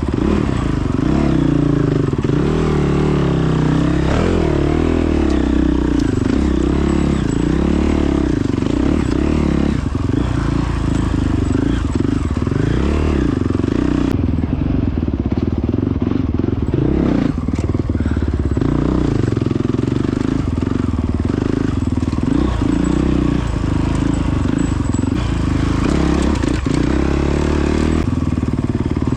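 Honda CRF450X's single-cylinder four-stroke engine running while riding off-road, its pitch rising and falling again and again with throttle changes.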